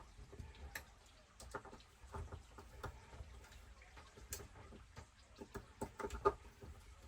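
Light, irregular clicks and taps of a hex driver and small metal parts as diff screws on an RC truck are given their last turns by hand.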